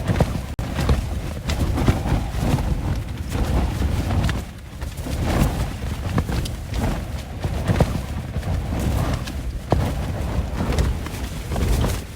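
Strong wind gusting and buffeting the microphone in heavy, pulsing rumbles, with irregular sharp knocks and snaps through it.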